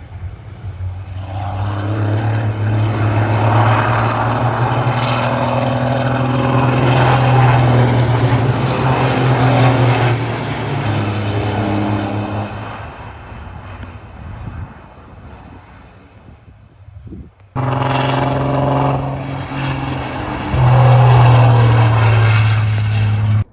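Racing trucks' big diesel engines at full throttle going past: a deep, loud, steady drone that builds over the first few seconds and then fades away. About 17 seconds in the sound cuts abruptly to another loud pass, which cuts off suddenly near the end.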